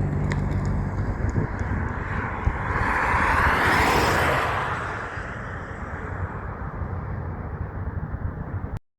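A heavy truck passing by on the road. An engine hum at first, then tyre and wind rush swelling to a peak about four seconds in and fading away.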